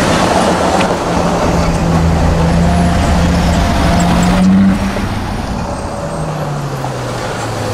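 Car engine running at low revs, a steady low note rising slightly in pitch, then an abrupt change about two-thirds in to a lower engine note that drops away, over street traffic noise.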